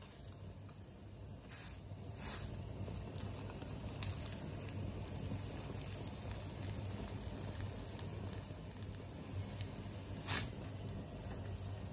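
Quiet, steady sizzle of food cooking in a pan, with three short scrapes. The loudest scrape comes about ten seconds in.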